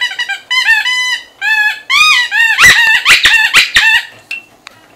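Puppies yelping, a quick series of short high-pitched cries that grow louder and crowd together about two seconds in, then die down near the end.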